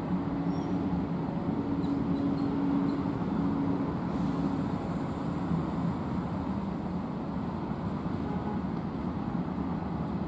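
Open-top freight wagons rolling slowly round a curve behind a slowing train: a steady rumble of wheels on rail, with a low hum over the first few seconds.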